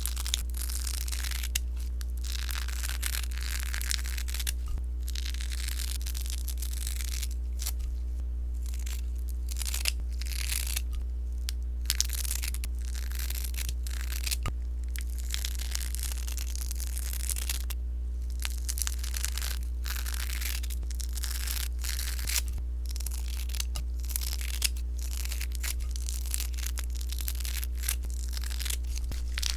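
Sponge slime being squeezed and worked by hand, giving a dense, irregular crackling and popping with many small sharp pops, over a steady low hum.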